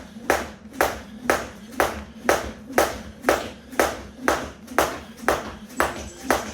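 A weighted 1 lb jump rope slapping the floor in a steady skipping rhythm, about two strikes a second.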